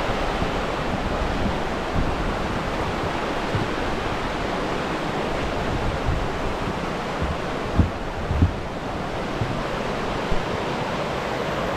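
Steady rushing of a waterfall and stream in flood, running very high and powerful after heavy rain and snowmelt. Two short low bumps of wind on the microphone come about eight seconds in.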